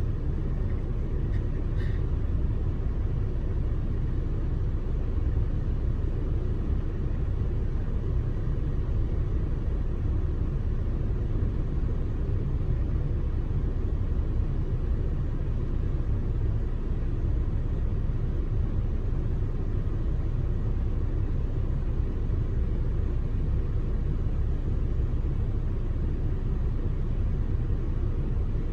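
Steady low rumble of an off-road truck driving along a dirt trail, with no change in level.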